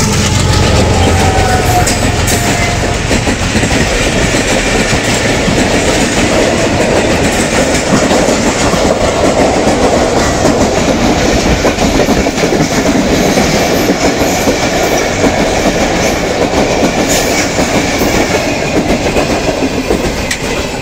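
Passenger train's coaches running past at speed, the wheels clattering fast and continuously over the rail joints. In the first couple of seconds the locomotive's engine hum falls in pitch and fades as it goes by, and the clatter eases off near the end.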